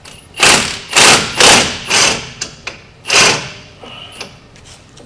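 Heavy hammer blows on a stuck wheel hub in a truck's steering knuckle: four loud strikes about half a second apart, a fifth about a second later, and a few lighter knocks after that.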